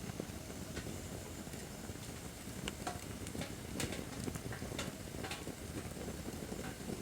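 Acacia firewood burning in a campfire stand: a steady low rush of flame with scattered sharp pops and crackles, most of them around the middle.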